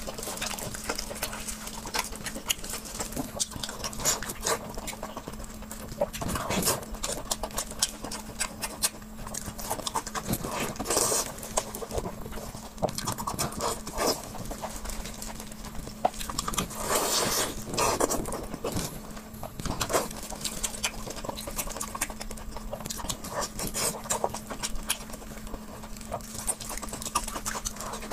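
Close-miked eating: chewing and mouth sounds, a dense run of irregular wet clicks and smacks, under a faint steady hum.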